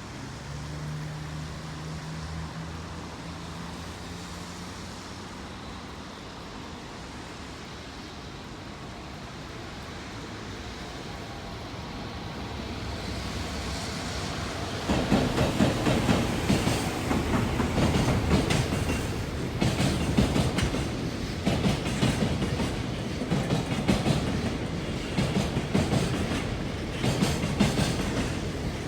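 Freight train hauled by an EF210 electric locomotive approaching, with a low steady hum at the start. About fifteen seconds in it gets much louder as the train passes close, its wagons' wheels clattering rapidly over the rail joints.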